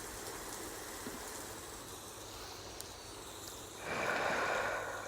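Steady hiss of rain and running-water ambience, with a breath-like whoosh lasting about a second near the end.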